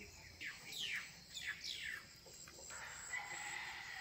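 Faint bird calls: several quick chirps, each sliding down in pitch, in the first half, then a thin steady high note near the end.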